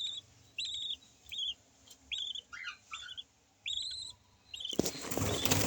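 Yellow lovebirds giving a series of short, high chirps, about two a second. Near the end a loud rushing noise suddenly takes over.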